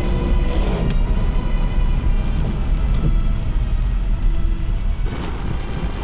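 Motor vehicle driving: a steady low rumble with road noise.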